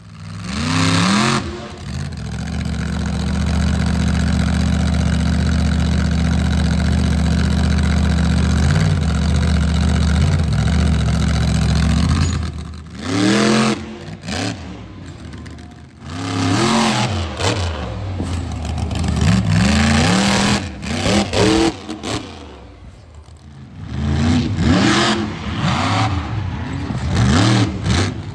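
Monster truck engine revving hard. After one quick rev it holds a steady note for about ten seconds, then goes through a series of sharp revs, rising and falling in pitch, with two short drops in level along the way.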